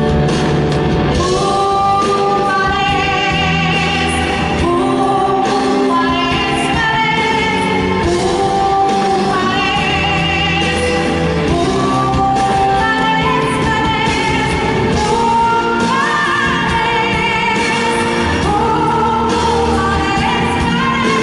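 A pop song performed live: a singer holds long notes with vibrato over a full band accompaniment.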